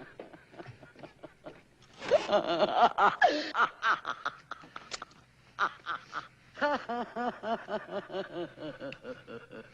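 A demonic voice laughing. It is loudest about two seconds in, and from about seven seconds on it settles into a steady, rhythmic chuckle.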